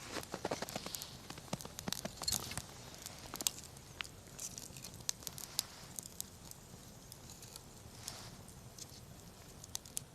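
Wood campfire crackling, with irregular sharp pops and a few brief soft hissing surges.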